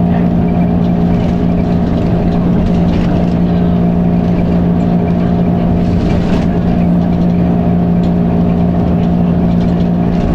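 Dennis Arrow double-decker bus engine running with a loud, steady drone that holds one pitch throughout.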